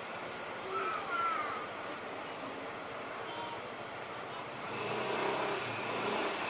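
Outdoor ambience with a steady high-pitched insect drone, a few short bird chirps about a second in, and faint voices and a low hum near the end.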